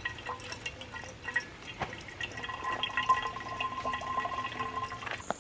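Water trickling and dripping as it is squeezed from a soft squeeze bag through a water filter into a container.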